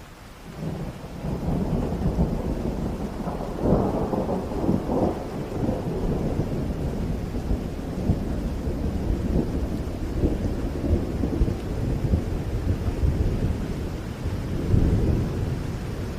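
Thunder rolls in about a second in and rumbles on over heavy rain, swelling into louder peals around four and five seconds and again near the end.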